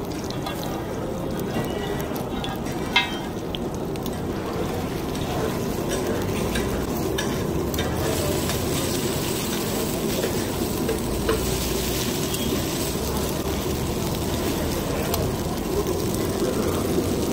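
Aloo tikki (potato patties) sizzling as they shallow-fry in oil on a large flat griddle, with metal spatulas scraping and pressing them against the pan. A sharp clink about three seconds in.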